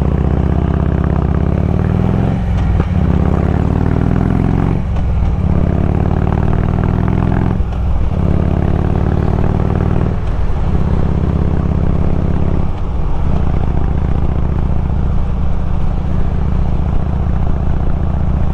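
Harley-Davidson Road King's V-twin engine pulling away and accelerating through the gears: the pitch climbs in stretches with a brief dip at each of five upshifts, about every two and a half seconds, then the engine runs steadily at cruising speed.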